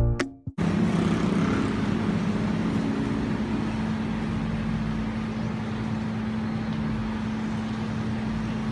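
A steady low mechanical hum over a constant rumbling noise, which sets in just after a short burst of music cuts off at the start.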